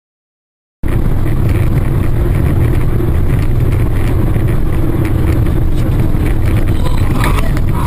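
Steady road and engine noise of a moving car heard from inside the cabin. It cuts in abruptly a little under a second in, after a moment of silence.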